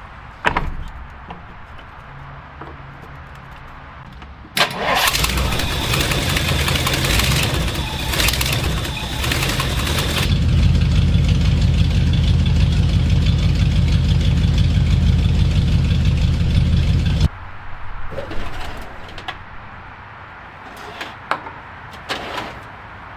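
The 1962 Ford Galaxie's V8 is cranked by its starter for several seconds, catches and runs steadily for about seven seconds, then cuts off suddenly. A few light clicks follow.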